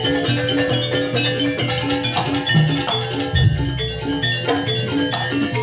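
Javanese jaranan music: pitched mallet gong-chimes play a quick repeating pattern of notes over drums, with deep struck notes a few seconds in.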